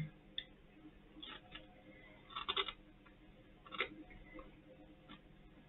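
Faint crunching of crispy pork scratchings being chewed: a few short crackles, with a small cluster about two and a half seconds in and another near four seconds.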